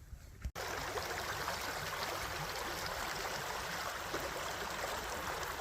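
Running water rushing steadily, like a stream, starting abruptly about half a second in.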